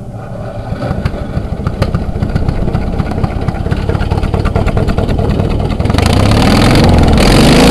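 Small two-stroke engine of a Weed Eater string trimmer catching and running on ether, a cold start. It fires rapidly and raggedly and gets louder, jumping to full throttle about six seconds in.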